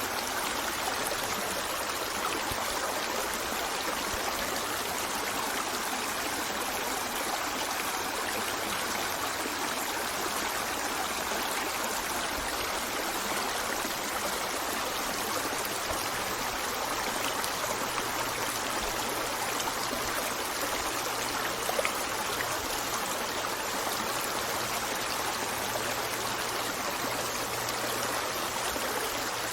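A stream of water running steadily over rocks, a constant rushing and trickling. A single soft click comes about two-thirds of the way through.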